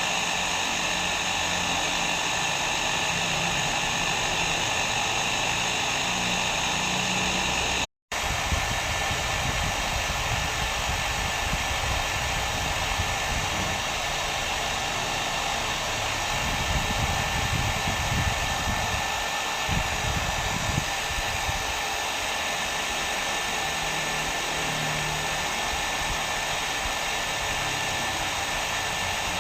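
Electric hair dryer blowing steadily, a continuous whooshing noise. It cuts out for a split second about eight seconds in and comes straight back with a deeper rumble underneath.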